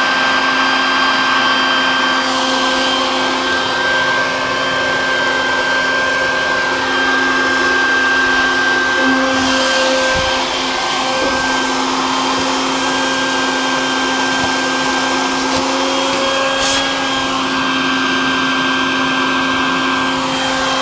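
A vacuum or blower motor running steadily with a high whine, used to clear leaves and debris out of an air conditioner unit.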